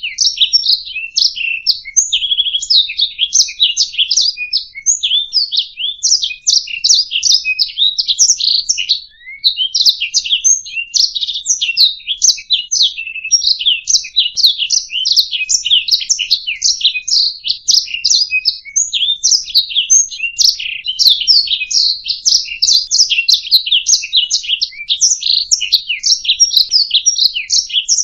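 Domestic canary singing a long, rapid warbling song of quick high trills and rolls, with a brief pause about nine seconds in.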